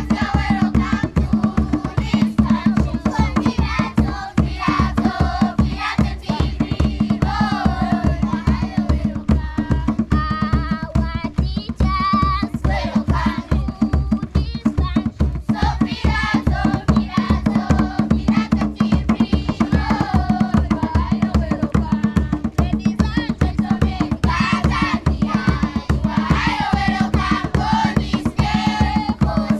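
A group of children singing together over fast, steady hand-drumming in a live performance.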